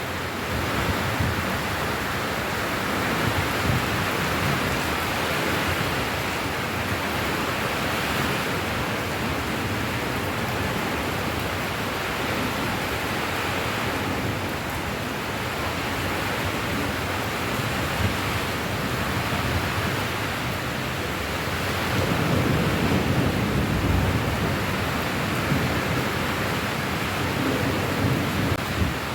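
Steady rain falling, an even hiss with no break. About three-quarters of the way through, a low rumble swells for a few seconds and fades.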